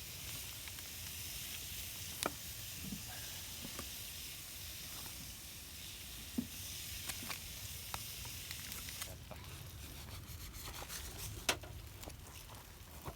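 Food sizzling as it fries, a steady hiss with scattered sharp pops; the sizzle drops away about nine seconds in, leaving more separate pops.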